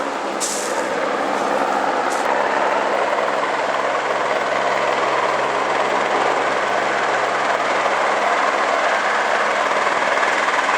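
A helicopter running close by, with its rotor and engine making a loud, steady noise.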